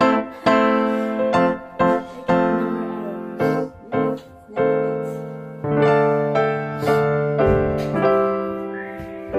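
Background piano music: a run of single struck notes and chords, each one fading after it is struck.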